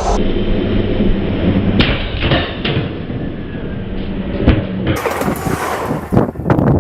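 Several sharp knocks and thuds over a low hum, then gusts of wind buffeting the microphone for the last couple of seconds.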